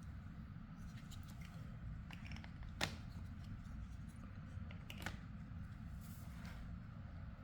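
Plastic building blocks being handled and clicked together, with a sharp click about three seconds in and another about five seconds in, over a low steady hum.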